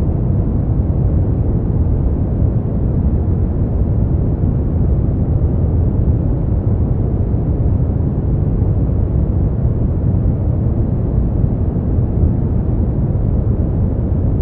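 Steady generated sleep-aid noise, an even deep rush with its weight low and little high hiss.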